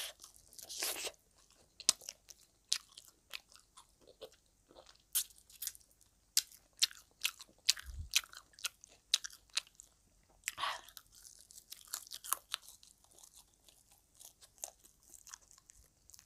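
Crunching and chewing of crispy fish-sauce-fried frog: sharp, irregular crunches, several a second at times, as the teeth break through the crisp skin and small, hard bones.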